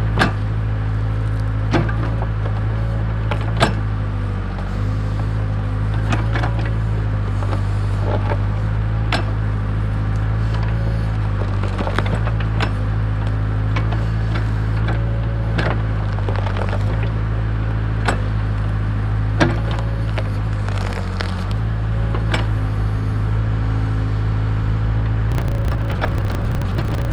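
Case 580K backhoe's four-cylinder diesel engine running steadily under hydraulic load, its pitch shifting a little, with repeated sharp knocks and cracks as the bucket strikes a tree root ball to knock the dirt off it.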